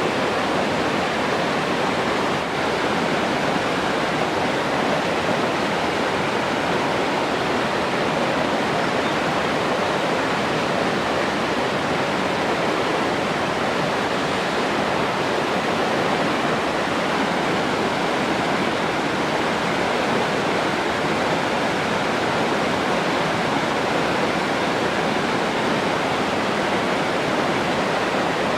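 Steady rushing of flowing water, an even unbroken roar like a waterfall or fast stream.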